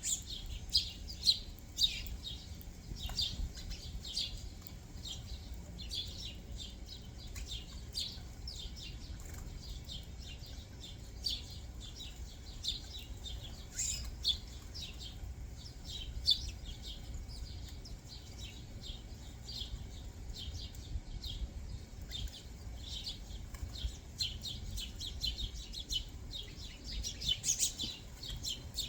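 Small backyard songbirds chirping continually, many short high chirps overlapping one another, over a steady low background rumble.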